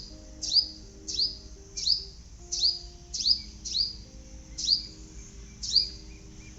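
A bird repeating one short, high-pitched, down-slurred chirp about every 0.7 seconds, nine times in a row, over soft sustained background music.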